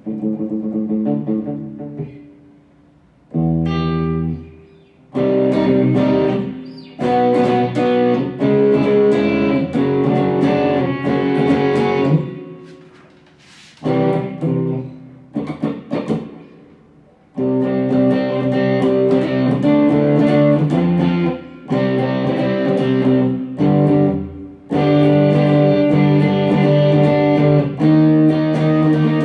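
Electric guitar played through a Mooer GE100 Pro multi-effects processor, demonstrating a preset. It plays strummed chords and short phrases separated by brief pauses, some let ring and fading, with longer held chords in the second half.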